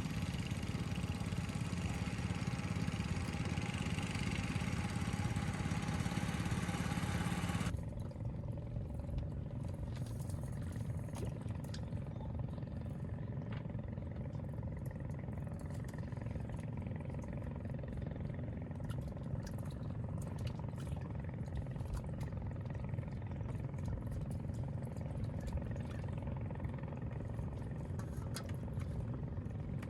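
Small engine running steadily, cutting off abruptly about eight seconds in; after that a low rumble with scattered faint clicks.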